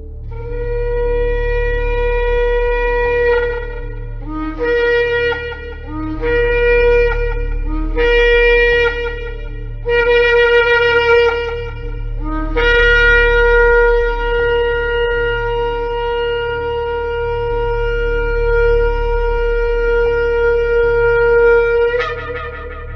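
Shofar blowing: one long blast, then four shorter blasts that each start on a lower note and step up, then a single note held about ten seconds that cracks upward at the end.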